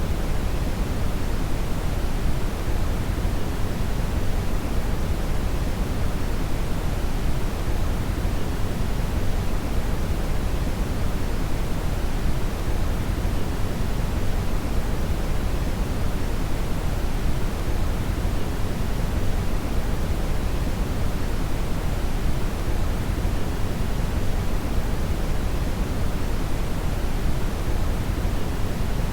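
Synthetic brown (red) noise: a steady, even rushing hiss weighted heavily towards the low end, with no changes or events.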